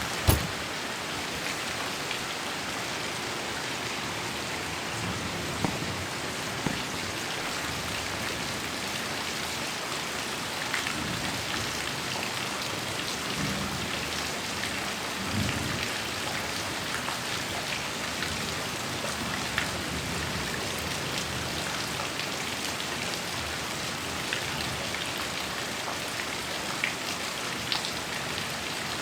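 Heavy rain falling steadily, with scattered louder drop hits. A sharp knock just after the start is the loudest sound, and a few brief low thuds come through.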